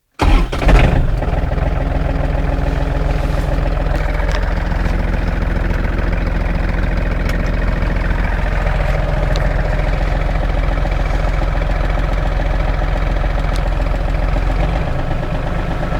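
John Deere hydrostatic tractor's engine starting cold at −1 °C: it fires up abruptly with a brief surge in the first second, then settles into steady running.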